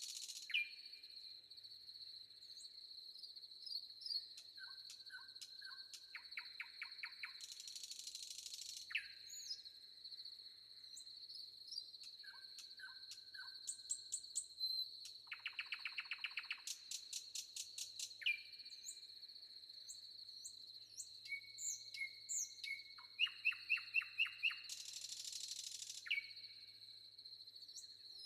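Forest ambience: several songbirds calling, with rapid trills, repeated chirps and short high whistles, over a steady high-pitched insect drone. A few brief hissy rushes come and go.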